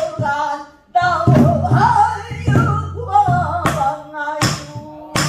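Pansori singing, a wavering, ornamented voice, accompanied by a buk barrel drum, with several sharp drum strokes, the most coming in the second half.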